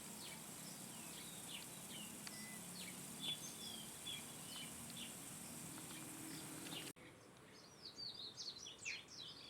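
Small birds chirping, with short, quick calls and slurred notes over a low, steady background hum. About seven seconds in, the sound cuts abruptly to a quieter background and a faster, busier run of chirps and twitters.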